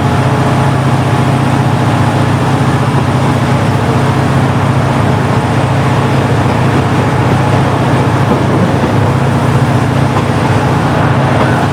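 KiHa 40-series diesel railcar's original DMF15HSA six-cylinder engine running, heard on board, with a steady low drone and no change in pitch.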